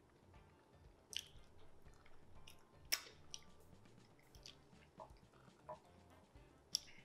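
Quiet wet mouth sounds of eating soft plantain fufu with peanut soup by hand: chewing, lip smacks and finger licking, heard as a scatter of short sharp clicks, the loudest about three seconds in. Faint music underneath.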